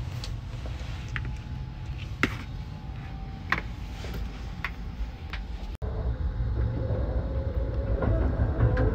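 Low rumble of the 285 series Sunrise Seto sleeper train running, heard inside the carriage, with several sharp knocks and taps in the first half from feet on the compartment's small stairs. About two-thirds through it cuts abruptly to a louder running rumble with a steady hum.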